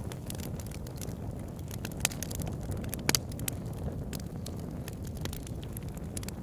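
Wood fire burning in a fireplace: a steady low rumble of flames with scattered sharp crackles and pops, a couple of louder pops about two and three seconds in.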